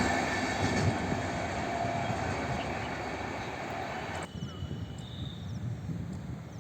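A passing train receding, its wheels rumbling on the rails and fading steadily. About four seconds in the rumble drops off suddenly, leaving a quiet background with a few faint high chirps.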